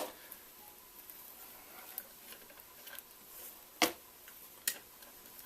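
A few sharp metallic clicks and clinks from a washer and nut being handled and fitted on top of a shock absorber's shaft, the loudest about four seconds in.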